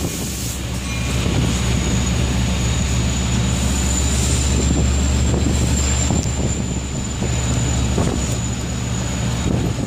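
Diesel-hauled Long Island Rail Road bilevel passenger train standing at the platform: a steady low engine hum with a thin high-pitched whine above it, over the hiss of heavy rain.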